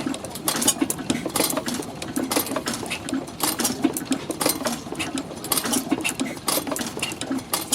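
Old stationary engine running, a fast, uneven mechanical clatter of clicks over a steady hum.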